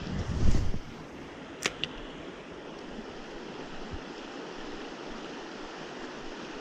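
Steady rush of a flowing stream, with a brief louder rush about half a second in and two sharp clicks a little later.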